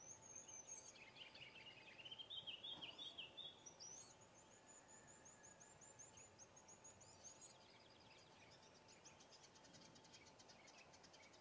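Faint songbirds singing: warbling phrases in the first few seconds, then a run of repeated high notes, and a fast high trill near the end.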